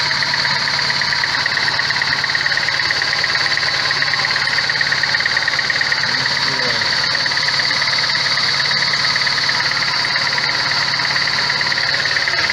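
VAZ-21099's four-cylinder engine idling warm and running rough, misfiring on one cylinder. The owner traces this to almost no compression in the third cylinder, most likely a burnt valve.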